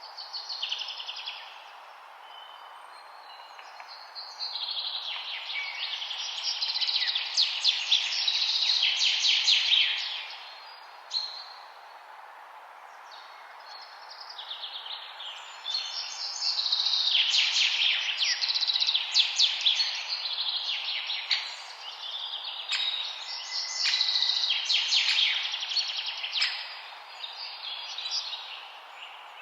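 Songbirds singing long, fast trilling phrases of high chirps that come and go in bouts, over a steady background hiss.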